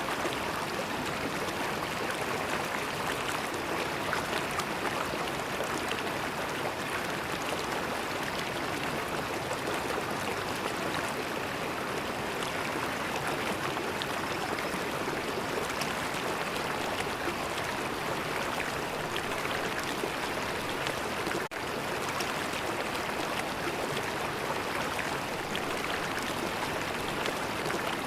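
River water flowing in a steady, even rush and gurgle, broken by a momentary dropout about three quarters of the way through.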